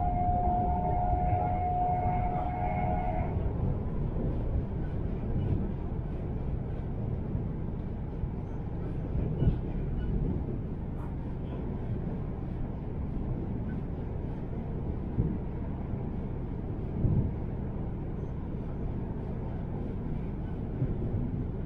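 Inside the cabin of a high-speed electric train running at speed: a steady low rumble of wheels and track, with a few brief knocks later on. A steady high tone sounds at the start and cuts off suddenly about three seconds in.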